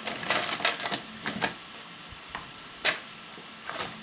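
A run of light clicks and clatters of small hard objects being handled, with a sharper knock about three seconds in and a few more clicks near the end.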